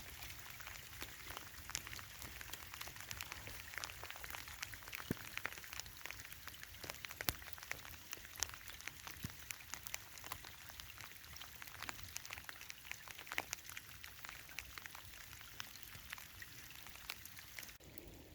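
Light rain falling, faint, with many separate drops ticking sharply close by over a soft hiss.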